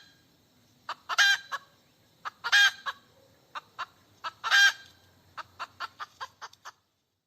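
Hen cackling: three loud drawn-out squawks, each framed by short clucks, about a second and a half apart, then a quick run of short clucks that stops suddenly near the end.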